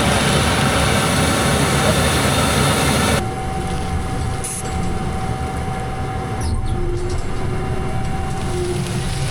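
Farm machinery running steadily: a low engine rumble under a broad hiss that cuts off abruptly about three seconds in, leaving a duller rumble with a steady whine.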